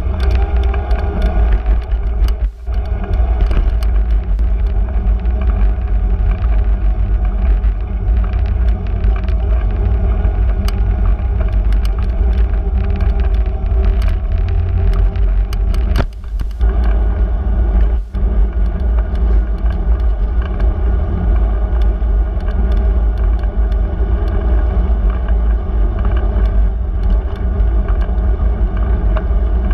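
Steady low rumble of road and wind noise picked up by a camera on a moving bicycle, with scattered small rattles and clicks.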